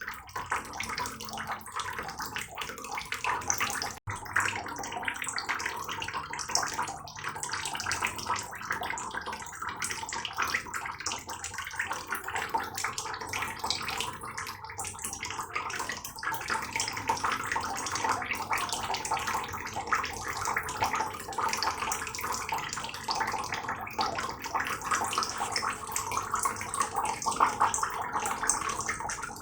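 Heavy rain falling steadily, a dense spray of drops splashing, with a momentary break about four seconds in.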